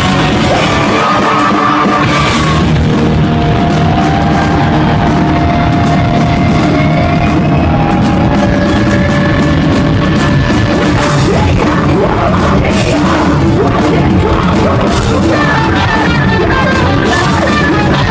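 A post-hardcore rock band playing loudly live, with drum kit and heavy guitars in a dense, unbroken wall of sound.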